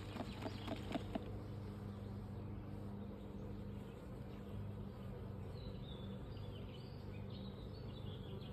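Honeybees buzzing around an open hive, a steady low hum, with a few light clicks in the first second.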